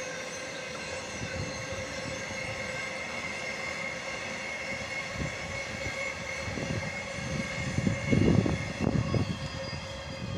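A train's wheels rolling past on the rails, giving a steady ring of several high tones over a low rumble, with louder low thumps about eight seconds in.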